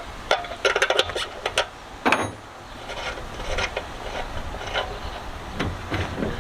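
Clicks and knocks of hands working at a small engine's gas tank, pulling the fuel filter out of its outlet: a quick run of sharp clicks in the first second and a half, another knock a little after 2 s, then softer scattered taps.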